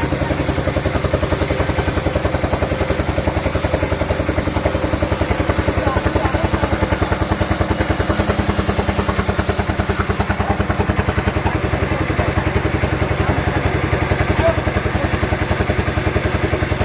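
Sawmill machinery with an engine running steadily, making a fast, even thumping pulse.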